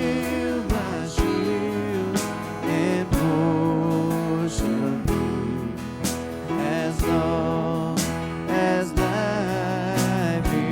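Worship band music: an instrumental passage with guitar and held, wavering melody notes over a steady beat of about one drum hit a second.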